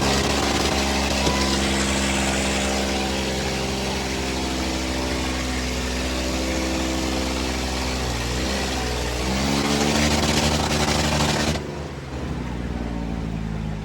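Eicher 557 tractor diesel engines running hard under load in a tug-of-war pull; their pitch sags about eight seconds in and then picks up again. A loud rushing noise over the engines stops abruptly near the end.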